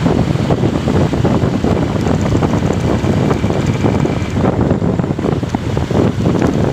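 Wind buffeting the microphone on a moving motorcycle: a loud, gusty rumble that goes on without a break.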